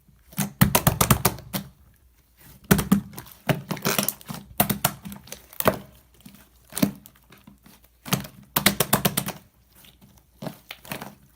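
Clay-mixed slime being squeezed and folded by hand, giving bursts of quick clicks and pops with short pauses between.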